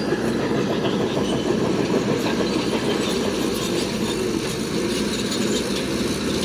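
Heavy earthmoving machine running steadily, its diesel engine mixed with a continuous rattling clatter.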